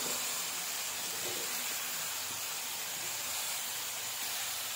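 Potato cubes and onions sizzling in hot mustard oil in a kadhai: a steady frying hiss.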